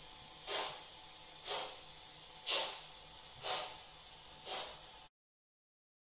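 Slow steam chuffs from an ESU Loksound 5 decoder's BR 45 sound in a Märklin H0 model locomotive, played through its built-in speaker: about one hissing beat a second, the beats going strong, medium, weak in turn like a three-cylinder engine. The sound cuts off abruptly about five seconds in.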